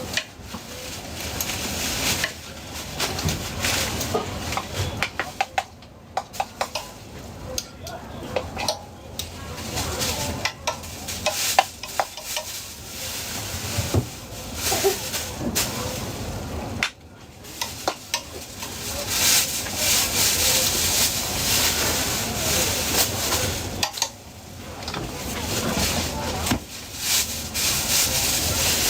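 Food sizzling and frying on a street-food stall, with utensils stirring, scraping and clicking against the pan.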